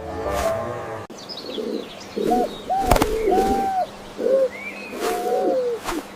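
Pigeons cooing in a repeated run of soft, arched coos starting about a second in, with small birds chirping faintly behind them. There is a sharp click near the middle.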